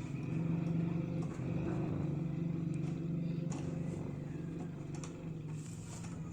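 Steady low mechanical hum, with a few light clicks over it.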